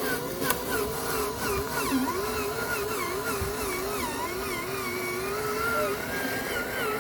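Small electric motor of a radio-controlled truck whining, its pitch wavering up and down continuously as the throttle varies.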